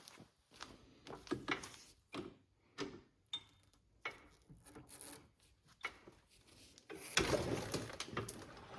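Faint, scattered clicks, knocks and rubbing from handling tools and parts, with a louder scraping rustle about seven seconds in.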